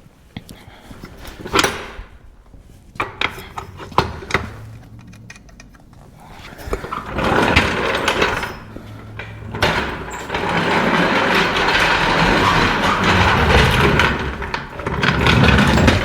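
Metal knocks and clanks of tools being handled, then a rough rattling clatter that builds over several seconds and stays loud and steady for about five seconds near the end, as a jack is brought into place under the engine.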